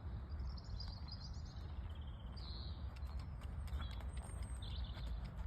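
Birds chirping over a steady low rumble, with a few faint knocks about three to four seconds in.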